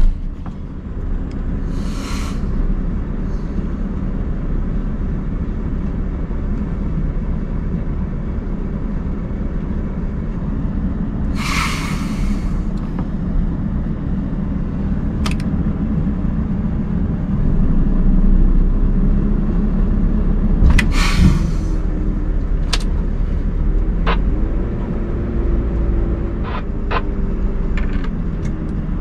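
Scania R580's V8 diesel truck engine running steadily, with three short hisses of released air and a few sharp clicks. About 24 s in the engine note rises and holds for a few seconds, then drops back.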